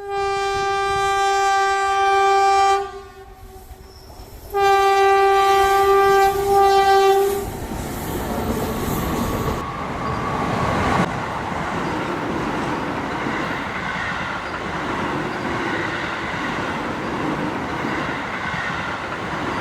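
Train horn sounding two long, steady blasts of about three seconds each with a short gap between them, followed by the steady running noise of a train passing on the rails.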